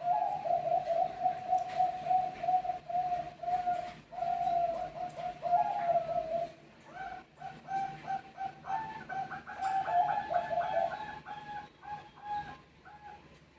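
Zebra doves of the Thai-bred 'perkutut Bangkok' line cooing in rapid runs of short staccato notes, birds answering one another. One run lasts about six seconds; after a brief pause a second run follows and fades out shortly before the end.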